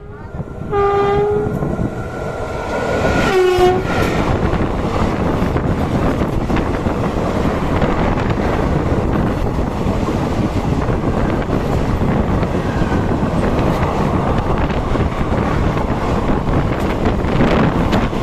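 Train horn sounding two short blasts, the second sliding down in pitch, then the steady rumble and rail clatter of an express passenger train running at speed.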